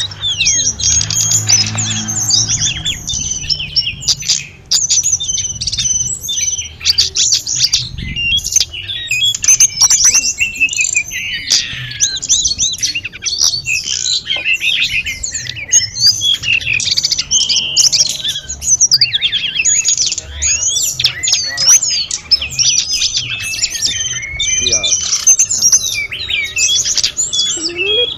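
Hill blue flycatcher (sulingan / tledekan gunung) singing without pause: a fast, varied run of clear, flute-like whistles and chirps.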